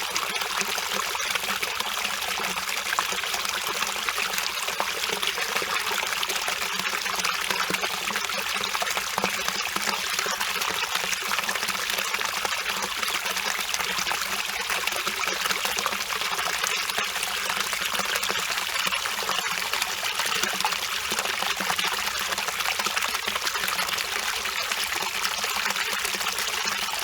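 Mountain valley stream flowing over rocks: a steady, unbroken rush and babble of water.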